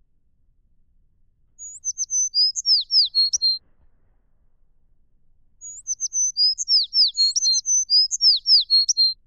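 A songbird singing two phrases of quick, high whistled notes with down-slurred sweeps: a short phrase about two seconds in, then a longer one from about six seconds in.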